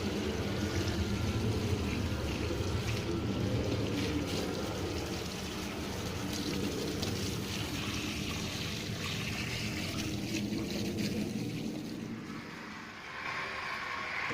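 Water spraying and running over a car as it is washed, a steady hiss with a low hum beneath it. The sound dips and changes character about thirteen seconds in.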